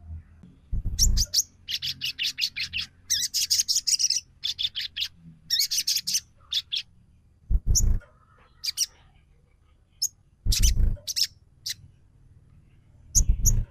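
Sogon trotol bird calling as a lure call: bursts of rapid, high chirping notes in runs with short pauses between them. Four low thuds come between the bursts.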